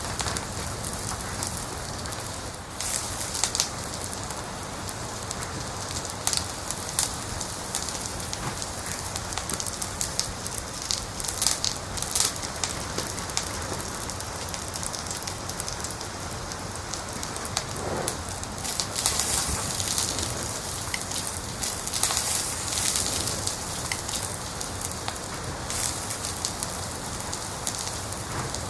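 Wood fire crackling in a fireplace: a steady hiss with frequent sharp pops and snaps, which come thicker about two-thirds of the way through.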